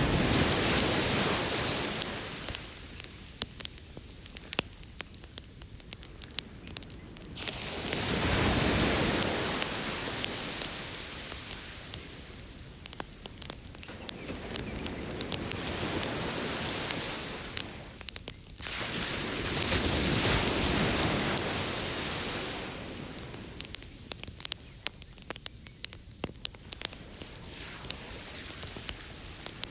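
Ocean waves washing ashore in slow swells, the biggest near the start, about eight seconds in and about twenty seconds in, with a campfire crackling and popping in many sharp little snaps.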